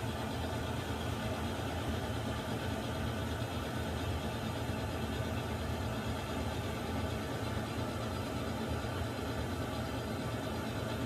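Water heater running: a steady, even rushing noise with a low hum beneath it, unchanging throughout.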